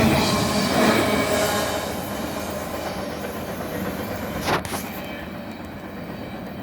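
Intermodal freight train cars rolling past on the rails, the rumble and wheel clatter gradually fading, with a single sharp clank about four and a half seconds in.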